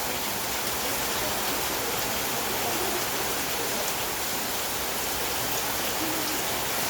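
Heavy rain falling on the roof: a steady, even hiss with faint scattered ticks of drops.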